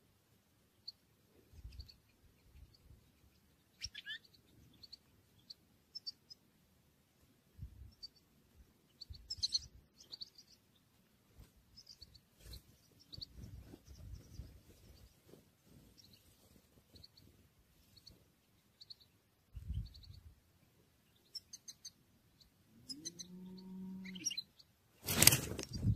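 Small birds giving scattered short, high chirps over a low rumble of wind. About three seconds before the end a cow moos, and right after comes a sudden, very loud rush of noise.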